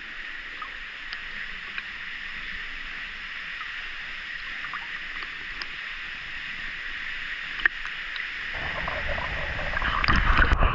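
Steady hiss of rushing water from a small waterfall pool. About eight seconds in, heavier low splashing and gurgling comes in and grows louder toward the end.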